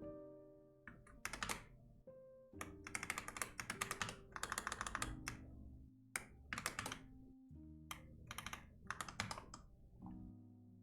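Computer keyboard typing in four quick bursts of keystrokes, over soft background music with held notes.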